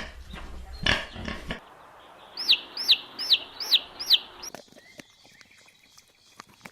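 An animal calling: five short, high chirps in a row, each falling in pitch, about two or three a second, after a few soft thuds and some rustling.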